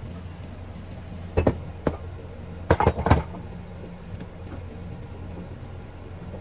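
A few sharp clicks and clinks of small hard objects, a pair about a second and a half in and a quick cluster about three seconds in, over a steady low hum.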